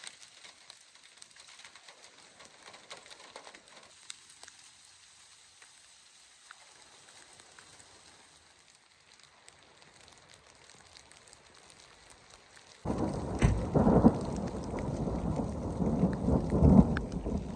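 Light rain falling, with scattered drops ticking, then about 13 seconds in a loud rumble of thunder starts suddenly and rolls on with several swells.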